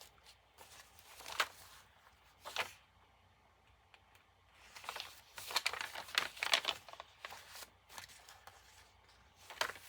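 Paper rustling and crinkling as the pages and paper inserts of a handmade journal are handled and turned, in scattered bursts with a busier stretch in the middle.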